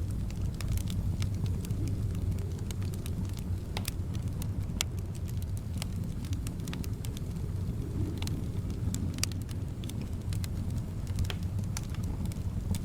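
Wood fire crackling in a fireplace: irregular sharp pops and snaps over a steady low rumble, with soft wind in the background.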